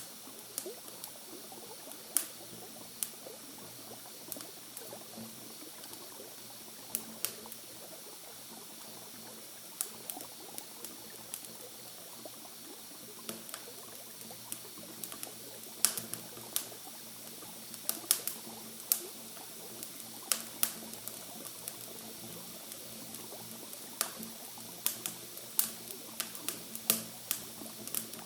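Campfire crackling: irregular sharp pops and snaps of burning wood, some seconds busier than others, over a steady soft hiss.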